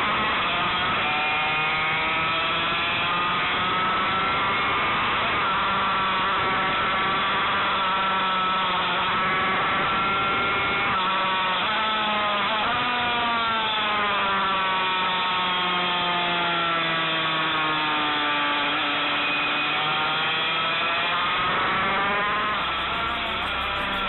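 Yamaha TZ250 two-stroke racing motorcycle engine under way at racing speed, heard from a camera mounted on the bike. Its pitch climbs, dips sharply twice about eleven and thirteen seconds in, falls steadily for several seconds, then rises again near the end.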